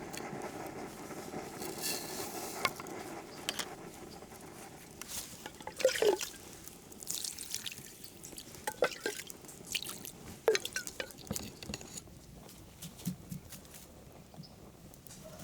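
Irregular drips and small splashes of water, a few louder drops in the middle, over a faint steady hiss.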